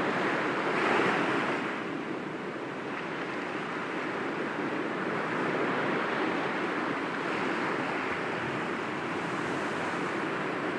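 Sea waves breaking gently against rocks, a continuous wash of surf with one louder surge about a second in, then settling to an even rush.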